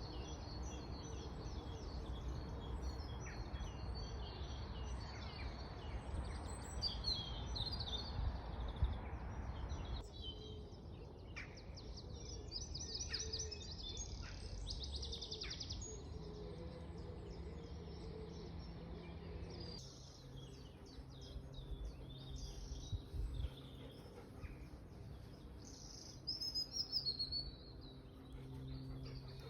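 Several songbirds singing and calling, with many short chirps and trills over a steady low background noise. The background changes abruptly twice, about a third and two thirds of the way through.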